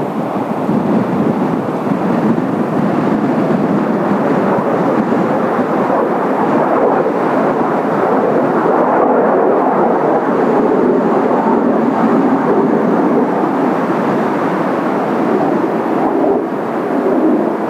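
Loud, steady jet noise from Kawasaki T-4 jet trainers' twin turbofan engines flying overhead, dipping briefly near the end.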